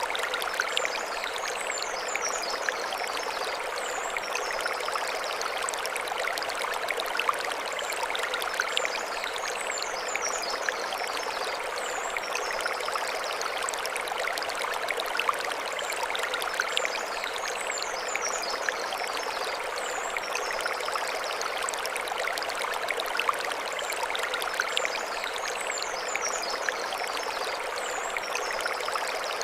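Mountain stream running steadily over stones, a continuous rushing babble. A high chirping phrase, like birdsong, recurs about every eight seconds above it.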